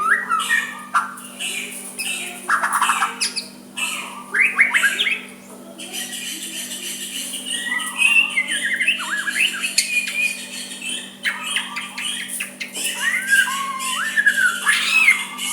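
White-rumped shama singing its soft song: a continual run of varied whistled glides, chirps and quick stuttering note series, without pause.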